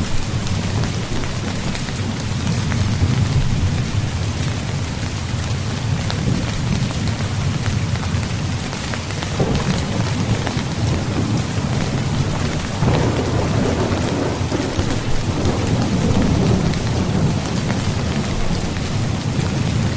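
Steady rain pattering on a tent, with low rolling thunder that swells about halfway through and again for several seconds in the second half.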